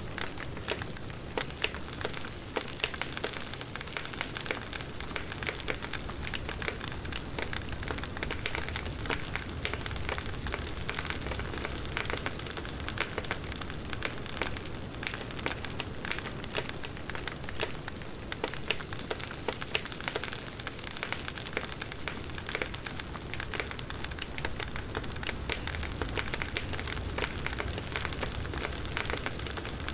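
Wood bonfire crackling, with a dense, irregular patter of pops and snaps over a low rumble of burning.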